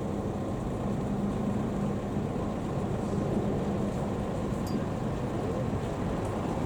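Large vehicle's engine idling, a steady low rumble with a held hum, typical of a parked bus's diesel.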